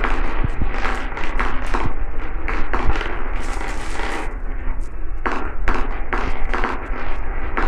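Glass marbles rolling down a marble run track, with a steady rolling rumble and many quick clicks and clacks as they knock against the track and each other.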